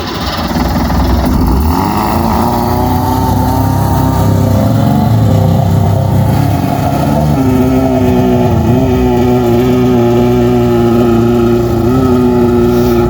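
Small jet boat's two-stroke engine running hard: its pitch climbs over the first couple of seconds, then holds fairly steady at high revs with a few brief dips.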